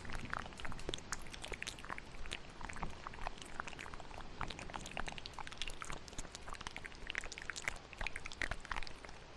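Close-miked wet ASMR mouth sounds: a rapid, irregular run of small clicks and smacks, several a second, layered over a steady hiss of rain.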